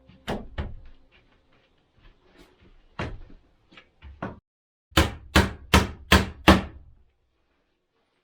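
Hammer blows on wood: a few scattered strikes, then five quick blows in a row about five seconds in.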